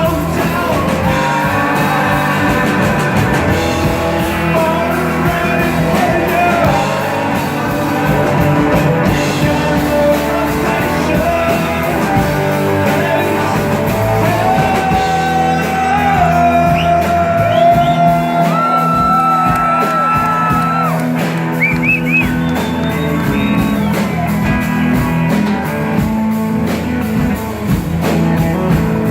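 Rock band playing live in a hall, with a singer over electric guitar, bass and drums. About halfway through, long held notes ring out over the band.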